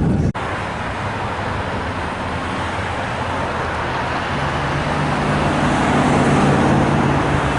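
Road traffic noise: a steady rush of passing vehicles, with a low engine hum coming in about halfway through and the noise swelling a little toward the end.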